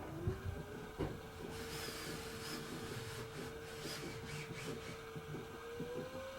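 Hoover H-Wash 300 Plus washing machine's drum motor whining as the drum speeds up: the pitch rises, holds steady, then climbs again near the end. Knocks, clicks and rustling come from the drum.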